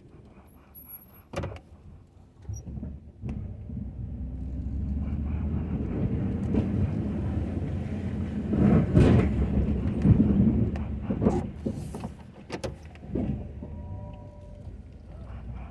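Ford F-250 pickup's engine running, growing louder through the middle and easing off again, with several sharp knocks and clunks.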